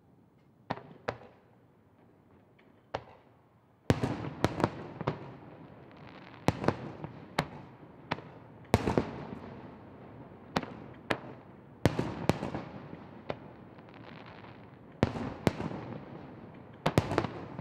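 Aerial firework shells bursting: a few faint scattered reports at first, then from about four seconds in a quick run of sharp bangs, each trailing off in a rumble that fills the gaps between them.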